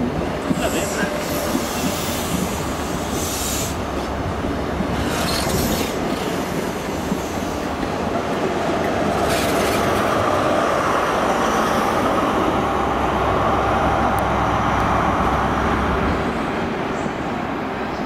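High Speed Train of Class 43 diesel power cars and Mark 3 coaches pulling out and rumbling past on the rails, with a few brief high wheel squeals. From about eight seconds in, the sound swells steadily as the rear power car's diesel engine passes, then eases slightly as it draws away.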